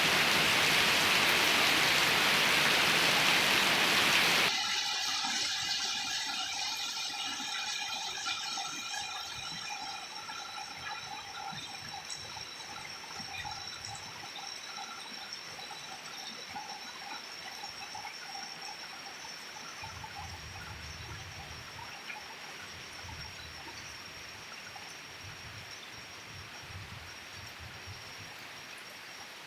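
Heavy rain pouring down, cutting off suddenly about four seconds in. Lighter rain and dripping water follow, slowly fading, with several faint steady high tones running underneath.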